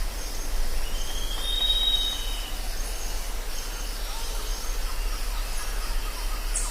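Jungle soundscape of insects and birds: a steady high hiss with short, high chirps repeating, and one long, high whistle about a second in.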